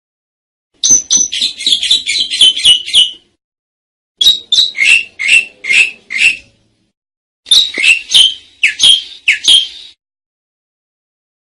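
Asian pied starling (jalak suren) singing: three bursts of rapid, chattering notes, each lasting two to three seconds, separated by short silent gaps.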